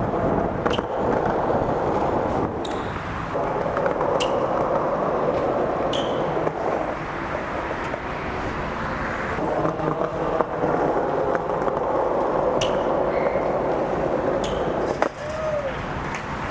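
Wheels rolling on pavement with scattered sharp clicks and knocks, over steady street noise.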